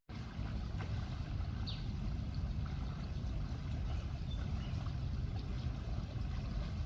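Water running steadily, with a low rumble underneath.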